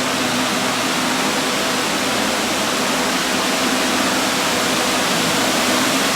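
Steady loud rushing noise aboard a moving car ferry, from water and air streaming past, with a faint steady hum from the ship's engines beneath it.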